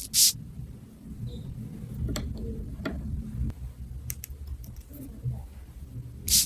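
Sharp clicks: a loud pair at the start, a few lighter clicks in the middle, and another loud pair near the end, over a low handling rumble.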